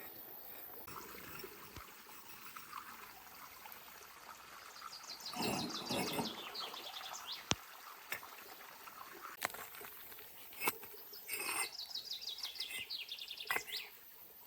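A bird singing two fast trilled phrases several seconds apart over a steady background hiss, with a few sharp clicks in between.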